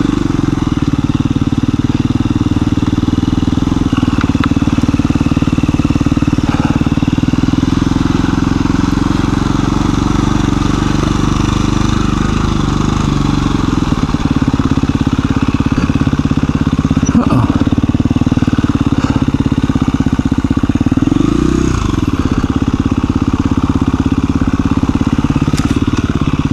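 KTM 350 EXC-F's single-cylinder four-stroke engine running at low trail speed, its pitch shifting with small throttle changes and briefly revving up and back down about three-quarters of the way through. A couple of brief knocks are heard.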